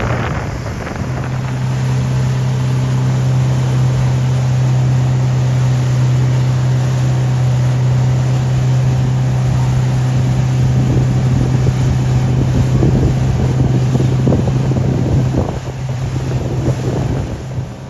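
Motorboat engine running at a steady speed, one unchanging hum, with wind buffeting the microphone; it eases off slightly near the end.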